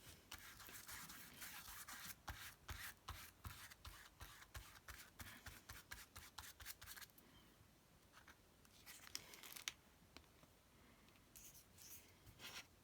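A brush stroking over paper: a quick run of soft scratchy strokes for about seven seconds, then a few fainter paper rustles.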